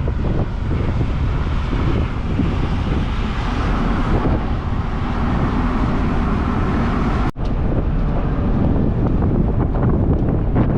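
Wind buffeting the microphone over a steady low rumble, broken by a momentary dropout about seven seconds in.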